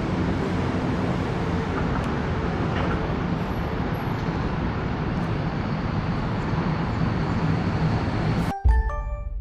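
Steady roadway traffic noise, a continuous rumbling hiss. Near the end it cuts off suddenly with a click, followed by a brief run of short chime-like tones.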